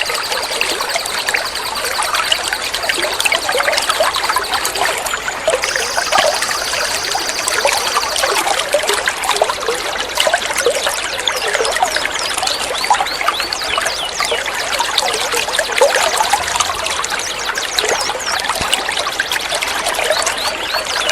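Water trickling and gurgling steadily, as in a small flowing stream. A thin, steady high-pitched tone runs alongside for the first eight seconds or so, breaking off briefly about five seconds in.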